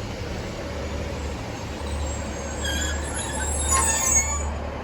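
Two coupled Class 156 diesel multiple units drawing into the platform: a steady low diesel hum with faint high-pitched squeals from the train about halfway through.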